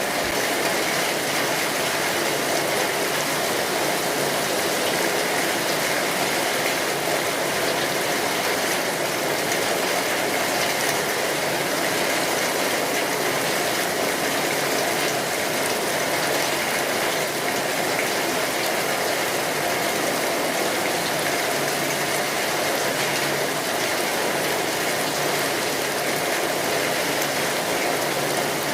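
Steady rainfall, an even hiss of rain pattering on surfaces with no breaks or changes.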